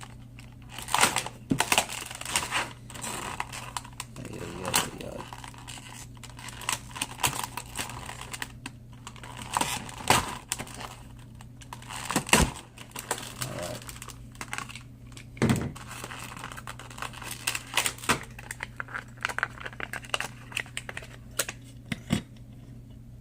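Stiff plastic blister pack on a cardboard card being cut and pried open with a utility knife: irregular clicks, crackles and crinkling of plastic.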